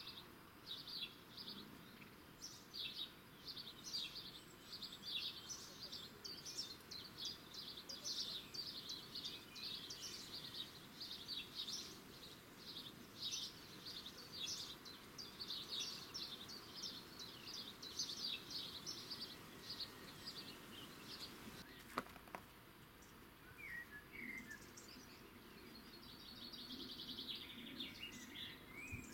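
Small birds chirping and twittering in quick, dense runs, thinning out after about twenty seconds to a few scattered calls. A single sharp click about two-thirds of the way through.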